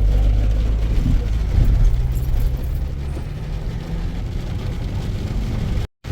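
Car engine and road noise heard from inside the cabin while driving: a steady low rumble with a faint hum. It cuts off abruptly for a moment near the end.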